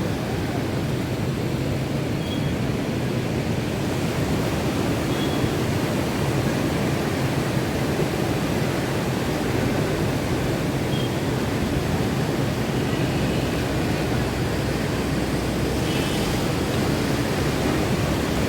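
Monsoon sea surf and wind: a steady, unbroken rushing noise of waves.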